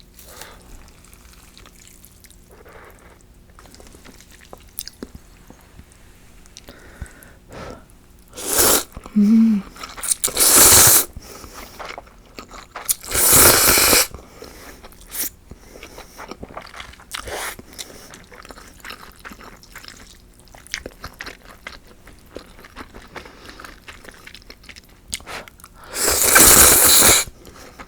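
Hot soba noodles slurped from broth in four loud slurps, the longest near the end, with quiet chewing and small clicks in between.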